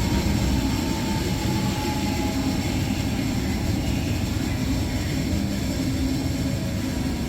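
Electrolux professional washer-extractor spinning its drum in the extraction cycle: a steady low rumble with a faint whine above it.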